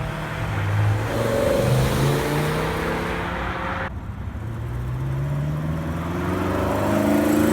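Car engine revving and accelerating, its pitch rising and falling. The sound changes abruptly about four seconds in, then the pitch climbs steadily again.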